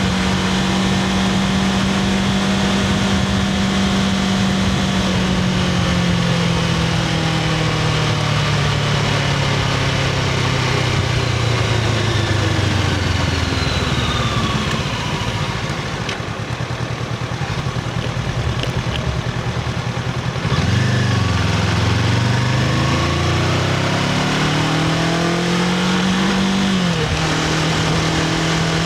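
Honda CBR500R's parallel-twin engine through its stock exhaust. It holds a steady pitch, then slows with the pitch falling over about nine seconds and runs quieter at low revs. About twenty seconds in it pulls hard again, the pitch rising with one drop at a gear change, and settles to a steady pitch near the end.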